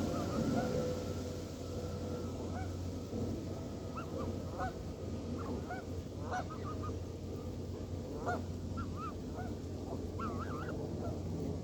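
Canada geese honking: many short, separate calls that come more often toward the end, over a steady low hum.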